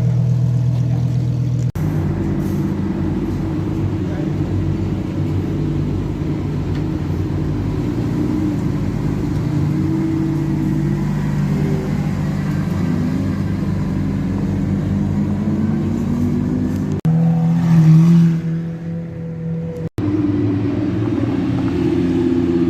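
Lamborghini supercar engines running at low revs and pulling away, in several short clips cut together. The pitch drifts slowly up and down, with one louder burst of revs about 18 seconds in that dies back down.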